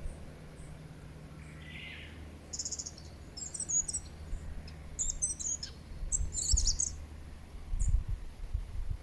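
Wild birds chirping outdoors: a soft call, then several clusters of quick, high-pitched chirps in the middle. Low rumbling thumps come in near the end.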